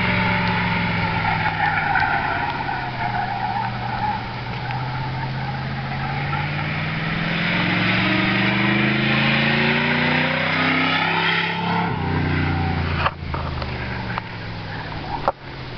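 Pontiac Grand Prix enduro car's engine pulling under acceleration, its pitch climbing steadily for several seconds, then dropping about eleven seconds in as the car shifts or lifts off, over a steady rushing noise. Two sharp knocks come near the end.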